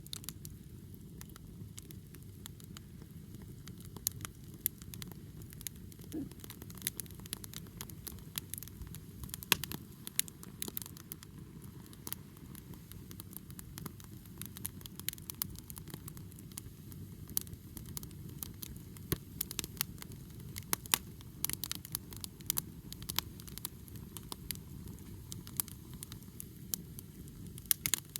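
Wood fire burning, crackling with many sharp, irregular pops over a low steady rush.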